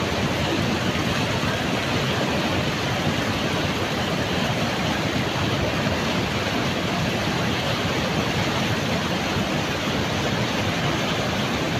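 Steady rushing noise that does not change, like wind on a microphone or running water.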